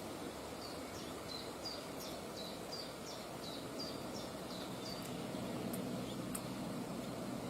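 A bird calling a rapid series of short, high, down-slurred chirps, about three a second, which stop about five seconds in. Steady low background noise runs under it, with two faint clicks after the calls.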